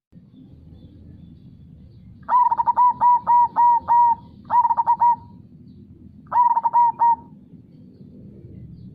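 Zebra dove (perkutut) singing its staccato cooing song: three phrases of quick, repeated coo notes, the first and longest about two seconds, over a low steady background noise.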